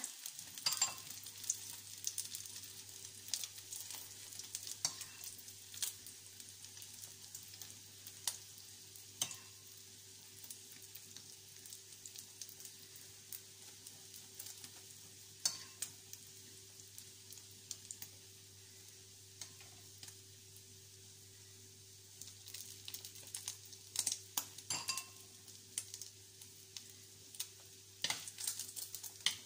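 Egg-dipped bread slices frying in oil in a nonstick pan: a steady faint sizzle with scattered crackles and pops. A spoon scrapes beaten egg over the bread near the start, and a steady low hum runs underneath.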